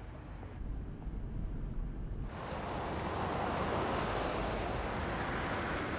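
A low rumble, then about two seconds in a loud, steady rushing noise sets in suddenly, like wind or surf.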